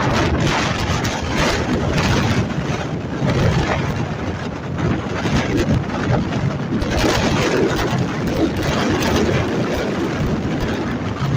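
Strong gusty wind buffeting the microphone: a dense rumble and hiss that swells and eases, with a stronger gust about seven seconds in.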